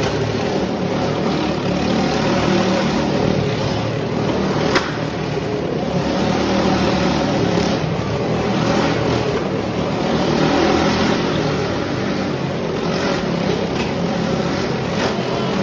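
A vehicle engine running steadily, with a single sharp click about five seconds in.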